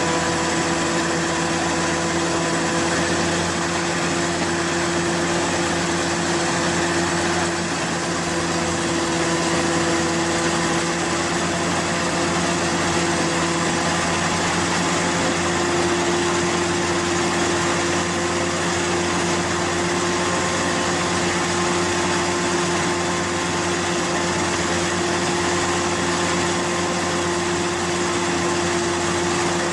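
Large corn threshing and shelling machine running steadily, a constant mechanical hum and whine over a broad rushing noise.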